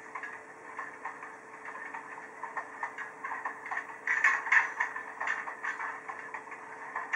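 Train running on the track, irregular clicking and rattling over a steady hum, with louder clatter about four seconds in.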